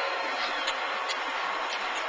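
O-scale model train running on its track: a steady whir with irregular clicks, typical of wheels passing over rail joints.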